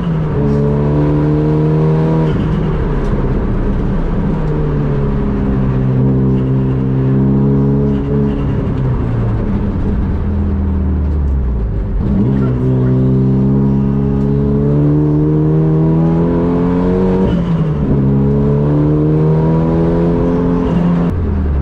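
Renault Clio track car's swapped-in Megane RS turbocharged four-cylinder engine driven hard: revs climb, drop sharply at each upshift and climb again, with longer stretches of falling revs as the driver slows for corners.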